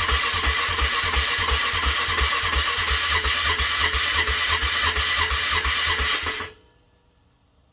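Car engine cranking over on its starter motor on a cold start, an even beat of about four compressions a second, without catching. The cranking stops abruptly about six and a half seconds in.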